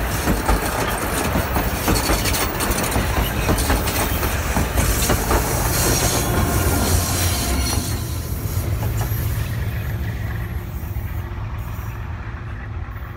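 Wheels of passing railway carriages clattering over the rail joints, then the rear banking locomotive 958, a 930-class diesel-electric, going by with a low engine rumble as it pushes the heavy train up the grade. The sound fades steadily over the last few seconds as the train pulls away.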